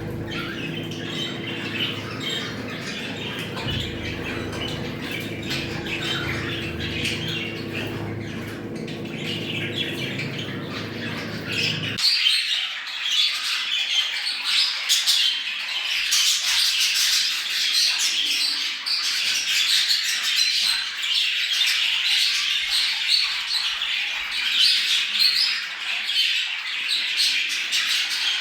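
Flock of budgerigars chattering continuously, a recording of the kind played to bring budgies into breeding condition. A low steady hum underneath stops abruptly about twelve seconds in, and from then on the chatter is louder and higher.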